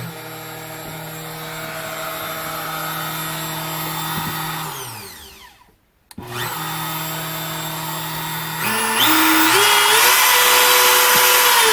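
A 1.5 hp wood router serving as a CNC router's spindle, test-run for the first time. It runs steadily, is switched off and winds down about five seconds in, then starts again. Near the end its speed is raised in several steps to a louder, higher whine.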